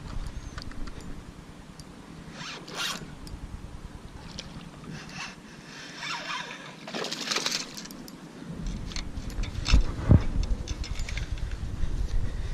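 Wind buffeting the microphone, easing off for several seconds mid-way. Over it come short zipper-like scrapes and rustles, with a couple of sharp thumps about ten seconds in.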